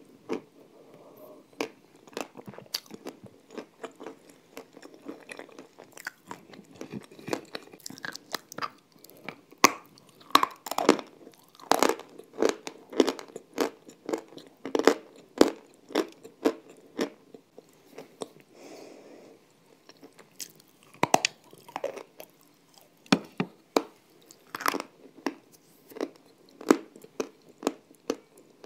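Close-miked chewing of crunchy, crumbly white chunks, in sharp, irregular crunches. The crunches are sparse at first and come much thicker from about ten seconds in.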